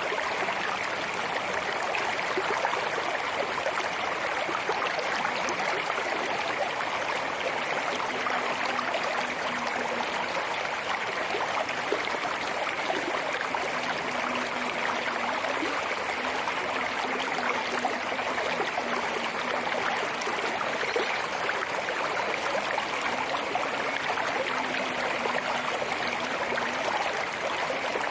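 Rain falling steadily, an even hiss of water that holds without a break.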